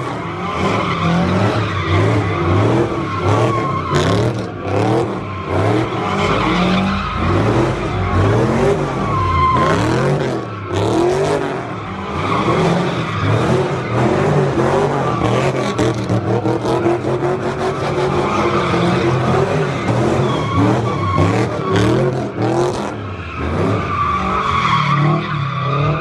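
A car sliding with its tyres squealing continuously over the engine running hard, as in drifting or donuts.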